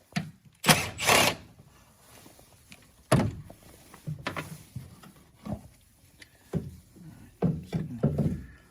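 Irregular clunks and knocks of hands-on work around a car, with the loudest pair about a second in and a cluster near the end.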